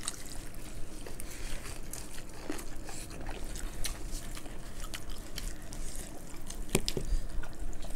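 Close-miked eating by several people at once: wet chewing and mouth smacks, with many short clicks as they eat fried rice and saucy veg manchurian with their fingers.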